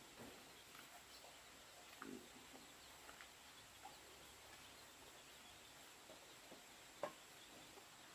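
Near silence: faint background hiss with a few scattered small ticks and one sharper click about seven seconds in.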